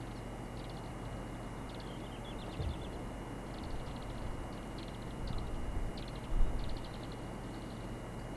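Small bird singing in short repeated trills and chirps, over a low steady wind rumble with a couple of brief gusts on the microphone.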